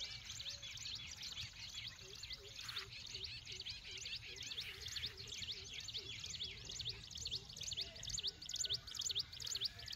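Many birds chirping in a dense chorus of short, high chirps, with a lower note repeating about twice a second.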